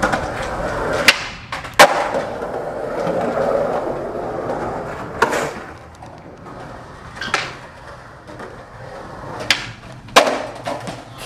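Skateboard wheels rolling over pavement, broken by sharp clacks of the board hitting the ground: six in all, the loudest about two seconds in. The rolling fades after about five seconds, leaving scattered clacks.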